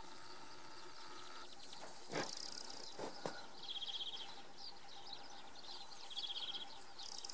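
Quiet outdoor background with a faint, rapid high bird trill twice, about four and six seconds in, and a couple of soft thuds a little before.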